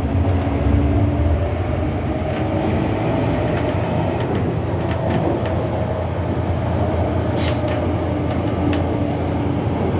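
MTR Airport Express A-train running: a steady low rumble of wheels on rail with faint humming tones, and a few short sharp ticks about seven to eight seconds in.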